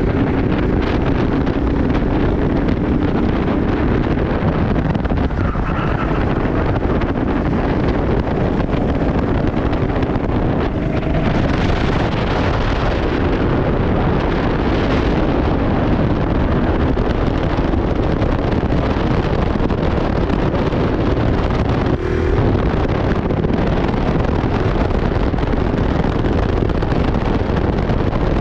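Kart engine running steadily at speed, heavily buffeted by wind noise on the microphone.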